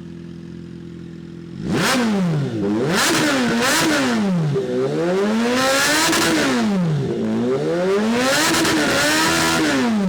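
Kawasaki Z H2's supercharged inline-four idling through an aftermarket Drift Xaust slip-on exhaust, then revved hard about a second and a half in. Three quick throttle blips are followed by two longer, higher revs, and the engine falls back toward idle near the end.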